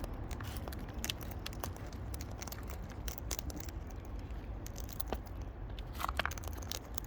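Wild parrots cracking and husking seed and nuts with their beaks close to the microphone: an irregular run of small sharp clicks and crunches over a low steady hum.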